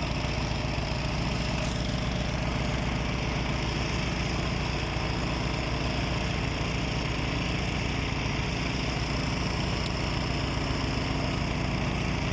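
An engine running steadily at an even speed, its pitch unchanging throughout.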